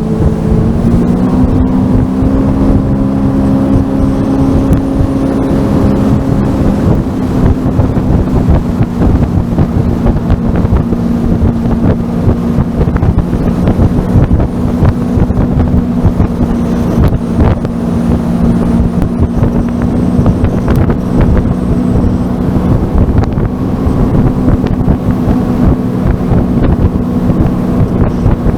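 Sea-Doo FishPro jetski engine running steadily at speed, its pitch stepping up slightly about a second in, with wind buffeting the microphone and water rushing past.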